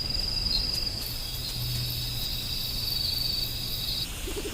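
Crickets trilling in a steady, high-pitched continuous chorus that cuts off about four seconds in, over a faint low hum.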